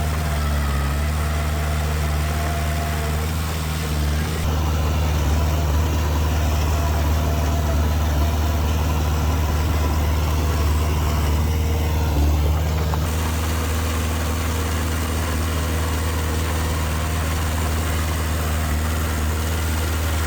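Heavy diesel machinery engine running steadily, a little louder between about 4 and 13 seconds in.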